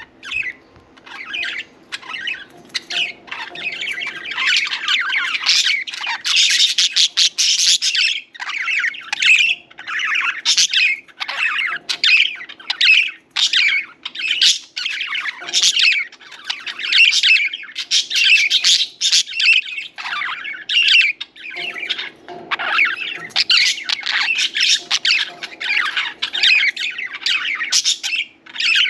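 Pet budgerigars (budgies) chirping and chattering, a dense, unbroken run of quick high chirps and warbles, over a faint steady low hum.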